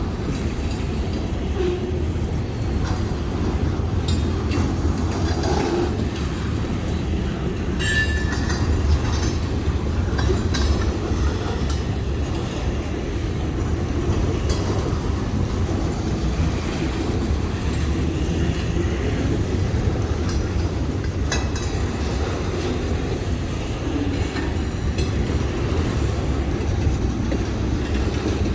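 Freight train rolling past with a steady low rumble of wheels on rail, scattered clicks from the wheels, and a brief high wheel squeal about eight seconds in.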